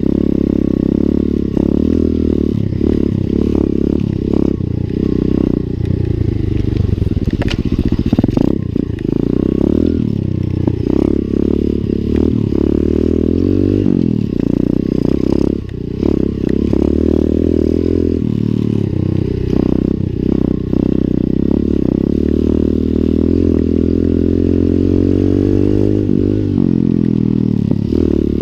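Lifan 125 cc single-cylinder four-stroke pit bike engine being ridden, its pitch rising and falling again and again as the throttle opens and closes. Occasional knocks and rattles are heard along with it.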